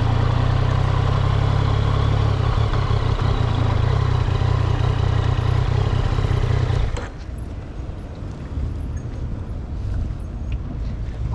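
Yamaha XSR900's inline three-cylinder engine running steadily, then stopping abruptly about seven seconds in, leaving a quieter background with a few faint clicks.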